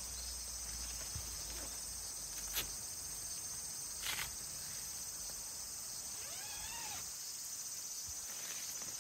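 Steady high-pitched insect buzzing. About a third of the way in there are two sharp knocks. A little past the middle comes one short call that rises and falls in pitch.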